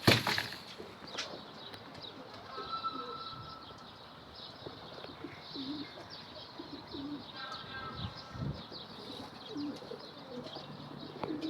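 Domestic pigeons cooing softly, with scattered faint chirps from other birds; a brief sharp sound right at the start.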